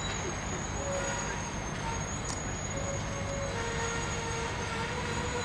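Slow-moving freight train rolling: a steady low rumble with faint thin squeals that come and go, and a single click about two seconds in.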